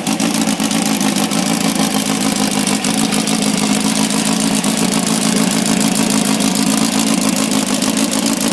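Funco dune buggy's engine idling steadily, still cold just after a cold start.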